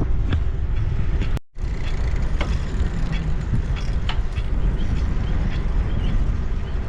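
Wind buffeting the microphone and the rolling noise of a bicycle on a paved trail, with scattered light clicks and rattles. The sound cuts out briefly about a second and a half in.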